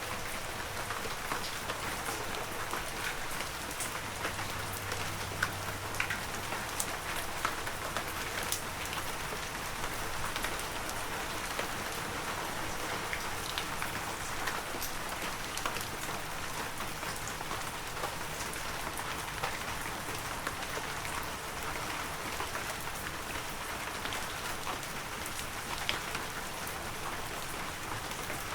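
Heavy rain falling steadily, a dense even hiss full of individual drop ticks, with now and then a louder drop striking close by.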